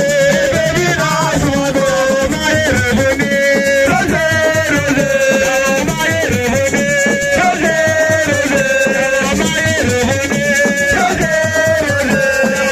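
Live assiko music: a sung melody carried over dense, driving hand percussion and shakers, with a plucked guitar in the mix.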